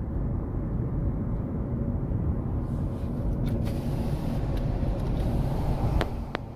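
Steady low rumbling noise, with two sharp clicks near the end.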